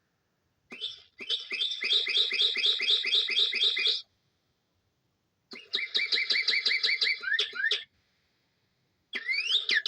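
Gemmy animated cardinal birdhouse toy playing recorded cardinal-style chirps through its small speaker. There are three bursts of rapid trilled chirps, about eight notes a second, with short silent pauses between them.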